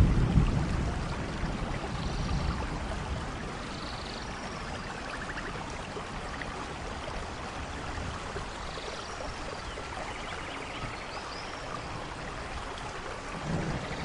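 Steady rain falling, with a low rumble of thunder dying away in the first couple of seconds. Faint short chirping calls now and then.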